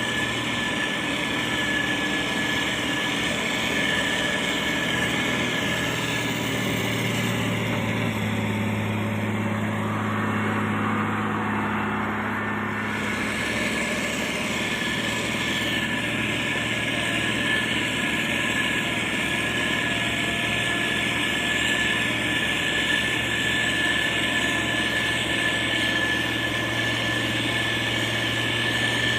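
Motor grader's diesel engine running steadily, with a constant high whine above it. For a few seconds near the middle the engine note shifts, and a pitch falls away before the steady running resumes.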